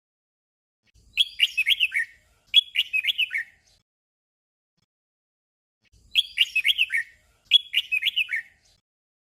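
Red-whiskered bulbul singing a short, chirpy warbling phrase twice in quick succession (a 'double'). After a pause of about two and a half seconds it sings the pair again.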